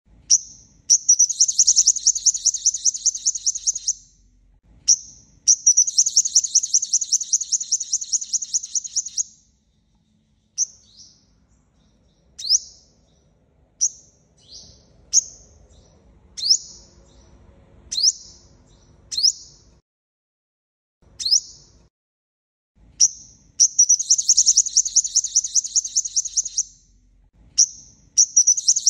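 Five-colour sunbird singing: sharp high chirps falling in pitch, run into long rapid trills of repeated notes lasting a few seconds each. In the middle the trills give way to single chirps about a second apart, and the trills return near the end.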